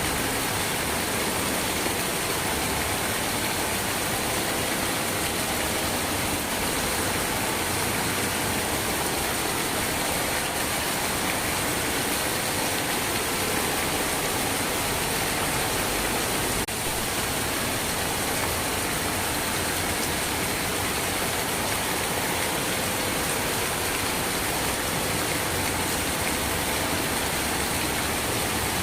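Steady rain, an even hiss of water with no rhythm or letup, and a single faint click a little past halfway.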